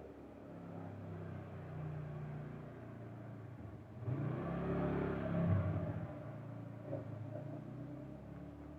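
A motor vehicle engine passing by: a low hum that swells about four seconds in, is loudest a second or so later, then fades away.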